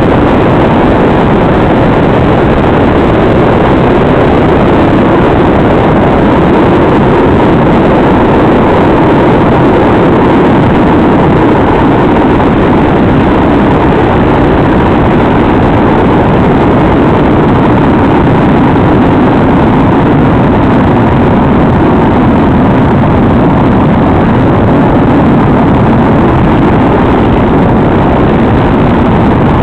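Loud, steady rushing static from the FPV video receiver's audio channel, recorded by the goggles' DVR. It is unchanging and muffled, with nothing above a fairly low cutoff.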